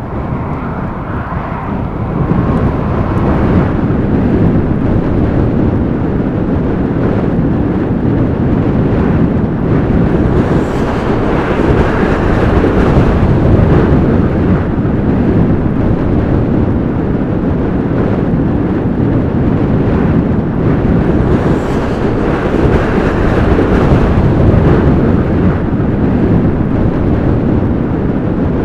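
Strong blizzard wind blowing in slow gusts and buffeting the microphone.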